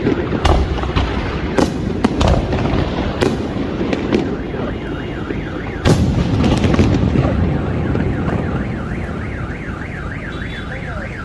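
Fireworks bursting, sharp bangs over a continuous rumble and crackle, the strongest about six seconds in. From about four seconds in, a car alarm warbles up and down about three times a second.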